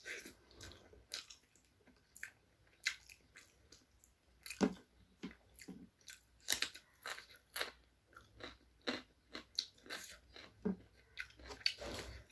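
Close-miked chewing of chicken curry and rice: a run of irregular, short mouth smacks and crunches, a few every second.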